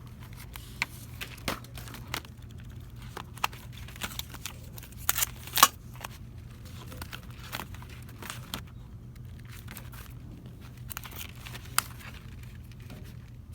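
Plastic packaging crinkling and rustling as it is handled, in short irregular crackles with the loudest one about five and a half seconds in, over a steady low hum.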